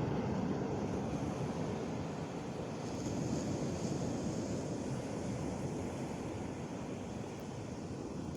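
Sea waves washing onto the shore: a steady rushing surf that swells a little in the middle.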